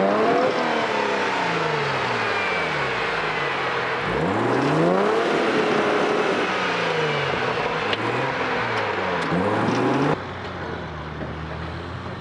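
Off-road vehicle's engine revving up and down again and again as it works over terrain. About ten seconds in it drops suddenly to a quieter, steadier engine sound.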